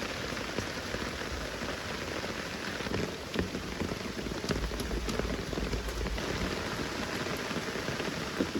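Steady rain falling, with many individual drops pattering on leaves and surfaces, and a low rumble for a second or two in the middle.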